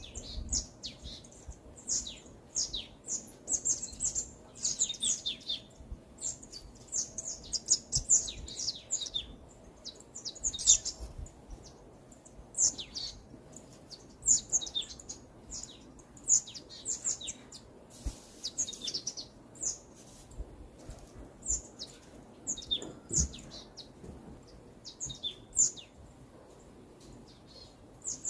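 Several songbirds chirping and twittering in quick high phrases, one after another, with short pauses between.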